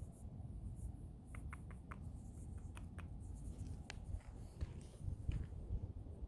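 A cat chewing: scattered short crunching clicks at an uneven pace, over a steady low rumble.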